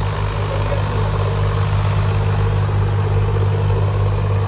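Heavy diesel engine running steadily at idle, a loud, even low drone with no change in speed.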